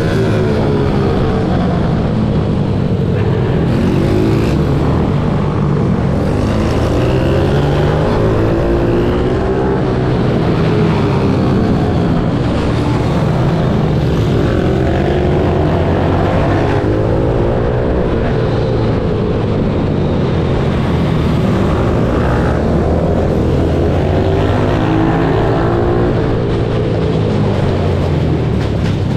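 Single-cylinder four-stroke pitbike engine revving hard, its pitch rising and falling again and again as it accelerates, shifts and backs off through the corners.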